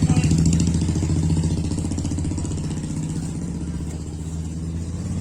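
A vehicle engine running close by with a steady low pulsing hum, gradually getting quieter.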